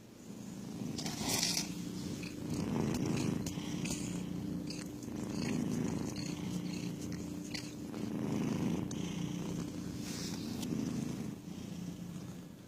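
Domestic cat purring close up, the purr swelling and easing with each breath, about every two and a half to three seconds. Short rustles and clicks sound over it, the loudest about a second and a half in and near ten seconds.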